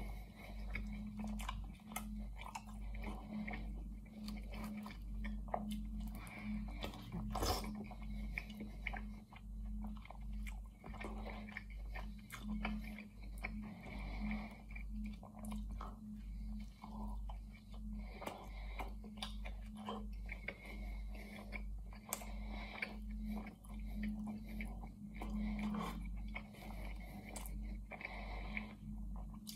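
Close-up chewing of a mouthful of chicken pie: wet mouth sounds and the crackle of pastry crust in a steady chewing rhythm, with one louder crunch about seven seconds in.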